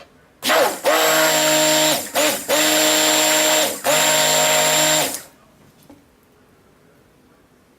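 Stick blender running in soap batter to bring oils and lye to trace. It runs in three bursts: it winds up about half a second in, cuts out briefly twice, and stops about five seconds in.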